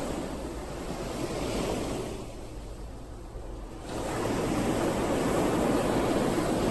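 Ocean waves washing onto the shore: one wash fades out about two seconds in, and after a short lull the next wave comes in strongly about four seconds in.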